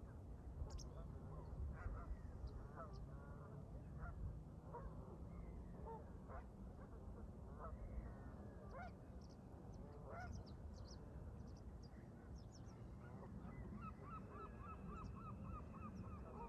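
A flock of Canada geese honking from across the water, call after call, breaking into a quick run of honks, about four a second, near the end. Wind rumbles low on the microphone, with a few thin high bird peeps.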